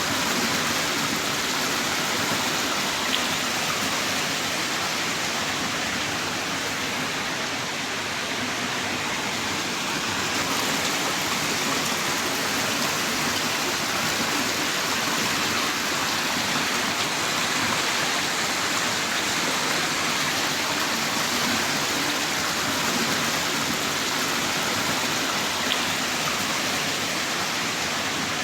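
Heavy rain pouring down in a steady, dense hiss, with an occasional single drop ticking out of it.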